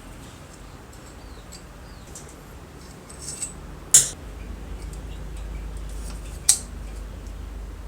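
Two sharp clicks about two and a half seconds apart, the first preceded by a softer rustle, over a low steady rumble.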